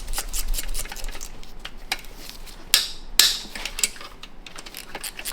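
Metal hand tools working on an NV5600 transmission's 5/6 shift crossover: rapid, steady clicking like a ratchet, with two louder sharp metal clanks about halfway through, half a second apart.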